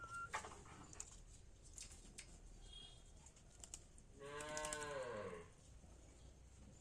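One drawn-out, moo-like animal call about four seconds in, lasting over a second, its pitch sagging at the end, with scattered faint sharp clicks around it.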